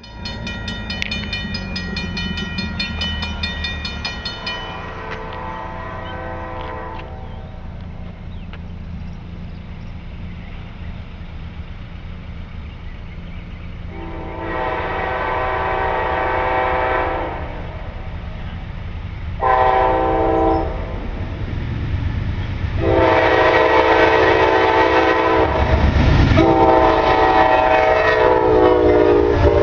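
Diesel locomotive air horn sounding the long, long, short, long grade-crossing signal as the train approaches, after an earlier, fainter horn sounding at the start. The rumble of the train grows louder under the final blasts.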